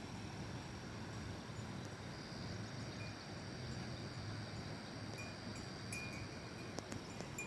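Steady rushing noise of floodwater, with a thin high steady tone and short, repeated high chirps over it.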